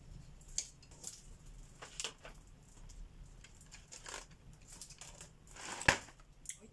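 Colouring on a paper page: short scratchy strokes and light taps, with a longer stroke that swells and ends in a sharp click about six seconds in.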